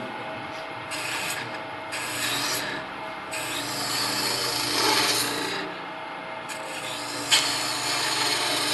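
Bowl gouge cutting into a spinning wooden blank on a lathe, rounding the end over toward a sphere: four cutting passes, the longest about two seconds, over a faint steady hum.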